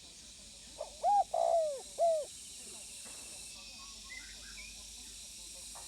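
Spotted dove cooing once: a three-note coo, the middle note longer with a rolling quaver, over a steady high hiss. A few faint short chirps follow a couple of seconds later.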